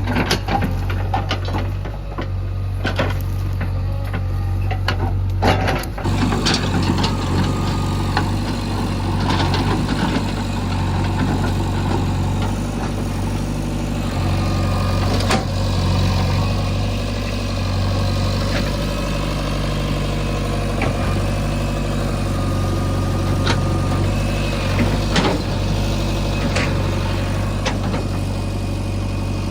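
Heavy diesel engine running steadily at idle, with scattered metallic knocks and clanks over it.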